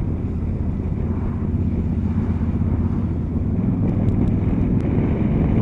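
Suzuki V-Strom V-twin motorcycle engine running steadily under way, with wind and road rumble around it.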